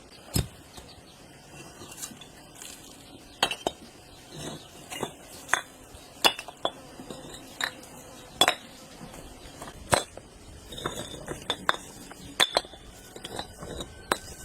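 Dishes, pots and utensils clinking and knocking: a dozen or so irregular sharp strikes, some with a brief metallic ring.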